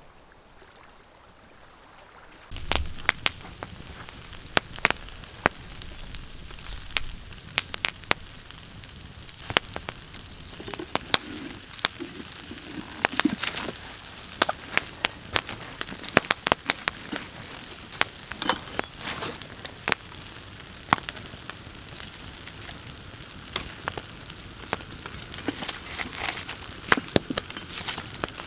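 Food frying over a campfire: a steady sizzle with frequent sharp pops and crackles. It starts suddenly about two and a half seconds in, after a quiet start.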